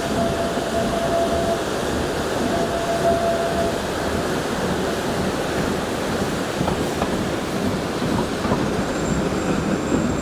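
Vintage mountain-railway train rolling along the track, heard from aboard: a steady rumble and rattle of wheels on rails and carriages. A faint thin wheel squeal sounds twice in the first few seconds.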